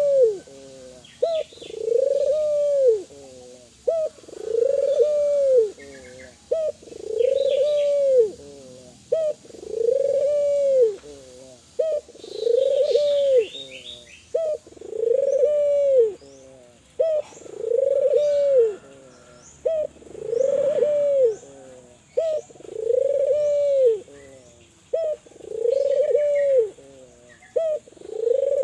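Spotted dove (tekukur) cooing in full song. It repeats its phrase about every two and a half seconds, each a short note followed by a longer, arched coo. Faint chirps of small birds sound in the background.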